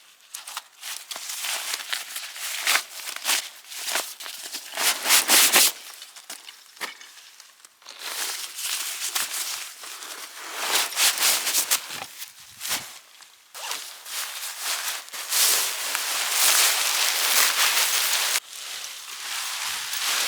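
Rustling and crinkling with scrapes and clicks, coming in irregular bursts of a second to several seconds: camping gear and bags being handled and unpacked.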